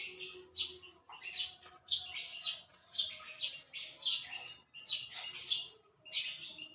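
Small bird chirping in short, sharp, high calls, about two a second.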